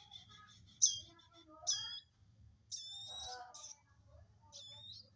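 Baby prenjak birds begging: about five sharp, high chirps and squeaks, with a longer run of calls in the middle, as they are hand-fed.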